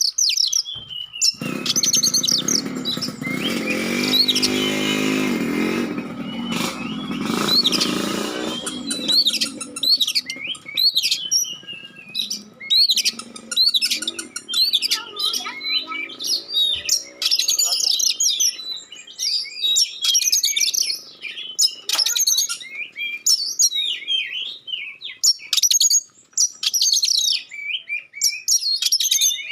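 Oriental magpie-robin singing a rapid, varied song of sharp, clear high notes throughout. For the first several seconds a motor engine runs past underneath the song.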